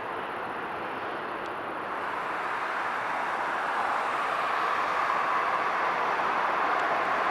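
Jet engine noise from a Boeing 777's GE90 turbofans: a steady, rushing roar that grows steadily louder.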